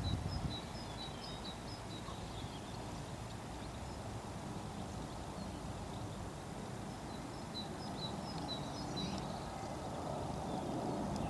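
Small birds chirping in two short runs of quick high notes, over a steady low outdoor rumble that swells near the end.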